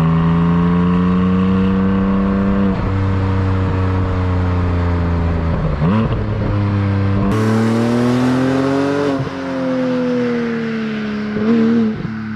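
Porsche 718 Cayman GTS flat engine accelerating through the gears. The pitch climbs, breaks at gear changes about three and six seconds in, and climbs again. It then falls away as the car slows, with a few short throttle blips near the end.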